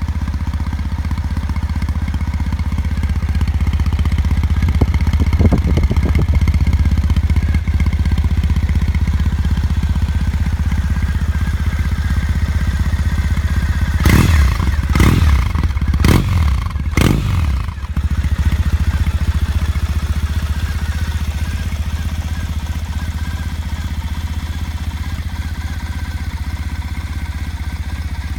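Triumph Bonneville T214's parallel-twin engine idling through its exhaust, with a light rev about five seconds in. A little past the middle come four quick throttle blips about a second apart, then it settles back to a steady idle.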